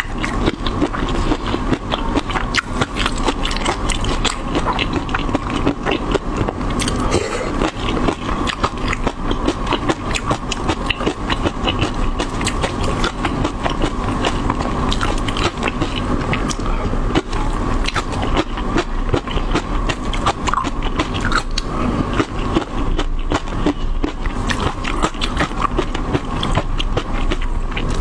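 Close-miked eating: continuous rapid mouth clicks, chewing and smacking as chopped chilli, garlic and onion in sauce are eaten, with a spatula scraping sauce across a plate.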